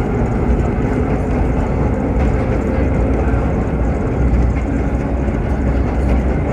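Vintage R1-9 subway train running along the track, heard from inside the car: a steady, loud rumble of wheels on rail.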